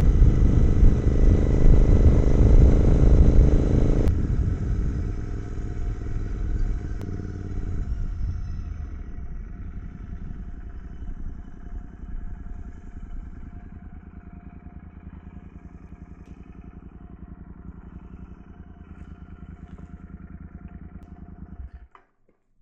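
Royal Enfield 650 parallel-twin motorcycle engine heard while riding, with wind rush, then slowing down. The sound drops about four seconds in and again around eight seconds, settling into a low, steady engine pulse that cuts off abruptly near the end.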